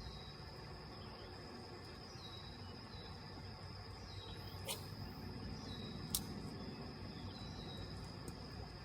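Insects buzzing steadily on one high note, with a short chirp repeating about every second and a half, over a low outdoor rumble. Two sharp clicks come near the middle.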